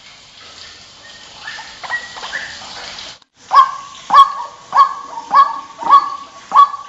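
White-breasted waterhen calling: faint call notes at first, then after a brief break a loud run of harsh, pitched croaking notes repeated about every half second.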